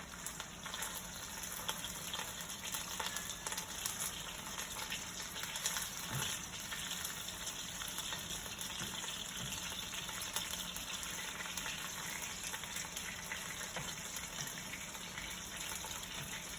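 Bite-sized cornstarch-coated chicken pieces sizzling steadily in hot oil in a pan, with faint taps as the pieces are turned over.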